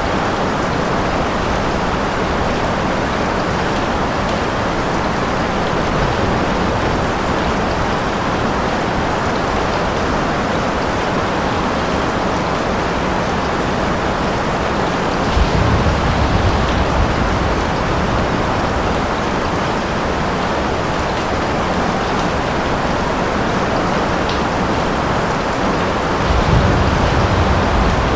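Steady heavy rainfall, an even hiss of rain, with two brief low rumbles of distant thunder, one about halfway through and one near the end.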